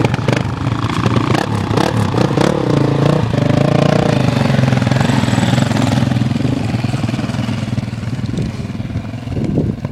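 Motorcycle engine revving hard, its pitch climbing a few seconds in, then easing off and growing quieter in the second half, with scattered clattering knocks in the first couple of seconds.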